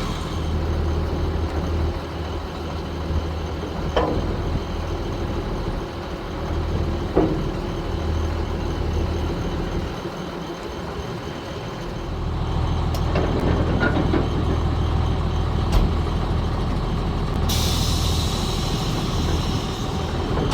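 A 1987 International S1900 dump truck's DT466 inline-six turbo diesel idling steadily, with a few sharp clicks. For about the last three seconds, compressed air hisses loudly from the truck's air system.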